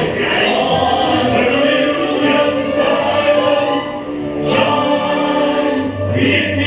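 Choir music, many voices singing long held notes; near the end a brighter rhythmic accompaniment comes in.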